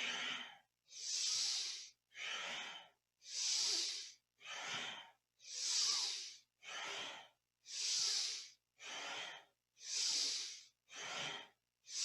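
A person breathing deeply and rhythmically in time with a Kundalini yoga exercise. Strong and softer breaths alternate, one full inhale and exhale about every two and a quarter seconds.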